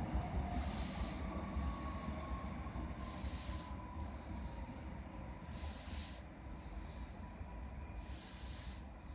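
An electric multiple unit train pulling away, with low rumble and a faint steady whine that slowly falls in pitch. Close to the microphone, breathing with a thin whistle swells and fades about every second and a quarter.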